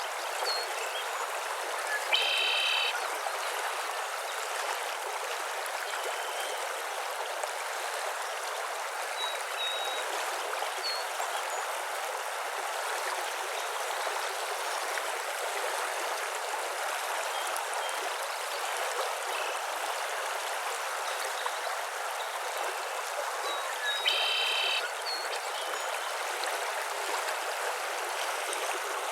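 Steady rush of running water with scattered faint bird chirps. Twice a louder, short, buzzy call stands out: about two seconds in, and again about twenty seconds later.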